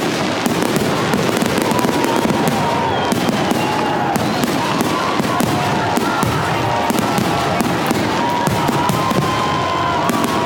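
Fireworks display: a dense, steady crackle of many small bursts, with thin whistling tones wavering through it.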